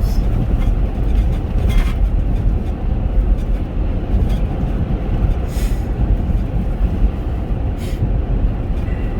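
Steady road and engine rumble heard inside a moving Chevrolet Captiva's cabin, with a few short hisses about two, five and a half, and eight seconds in.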